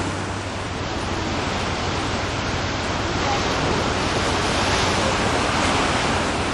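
Ocean surf washing onto a beach: a steady rush of waves that swells a little in the second half.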